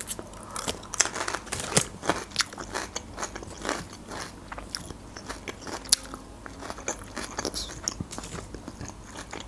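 Crunchy chewing of a slice of raw bell pepper: many irregular crisp crunches.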